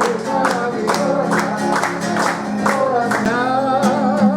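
Strolling restaurant musicians performing live: a singer's voice over guitar strummed at about two strokes a second.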